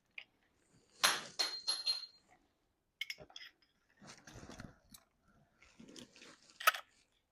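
Scattered metal clinks, knocks and scrapes of hand tools on garage door hardware, one with a brief metallic ring about a second in.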